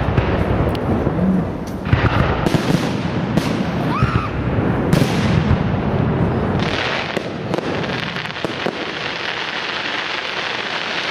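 Professional aerial fireworks: shells bursting with a string of sharp bangs, one with a short rising whistle about four seconds in. From about seven seconds the bangs give way to a dense, steady crackling.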